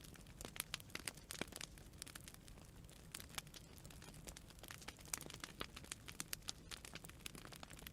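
Campfire of burning wood branches crackling and popping in many sharp, irregular snaps over a low steady rumble of the flames.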